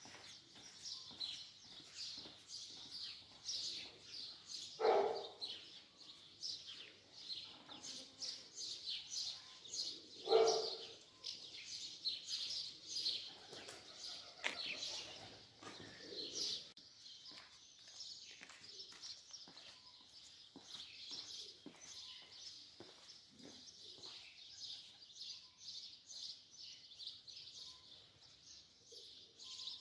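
Many small birds chirping continuously, a dense high-pitched chorus, with two short louder, lower sounds about five and ten seconds in.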